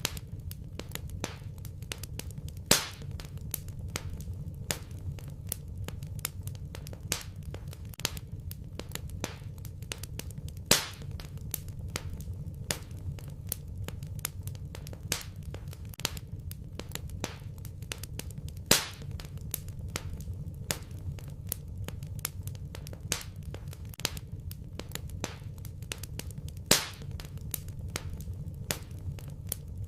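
Wood fire in a fireplace crackling: a dense run of small crackles over a low steady rumble, with a louder sharp pop about every eight seconds.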